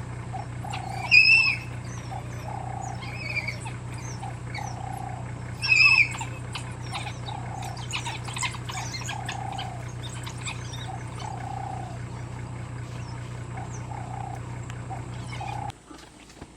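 African wild dogs calling with short repeated notes about once a second and high bird-like chirps, two of them loud, over the steady low hum of an idling vehicle engine. The hum stops suddenly near the end.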